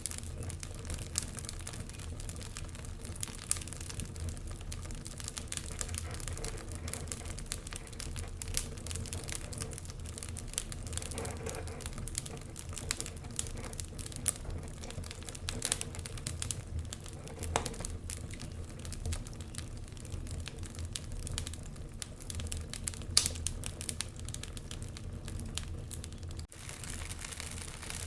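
Wood fire crackling in a fireplace: dense, irregular sharp pops and snaps over a steady low rumble, with a brief dropout near the end.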